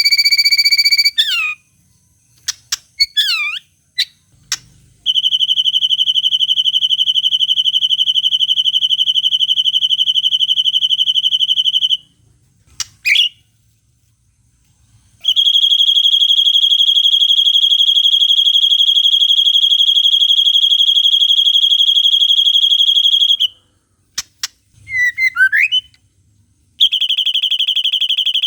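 White-rumped shama birdsong with long, steady, high buzzing trills, each several seconds long, in the style of a long cililin call. Between the trills come short bursts of quick sweeping whistles and sharp clicks, about a second in, in the middle and again near the end.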